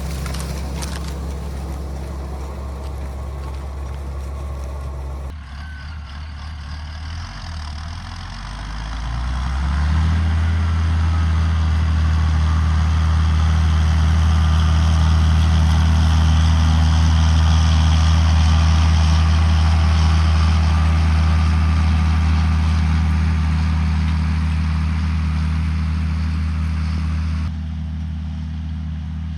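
John Deere 7800 tractor's six-cylinder turbo-diesel engine running steadily under load, growing louder about ten seconds in.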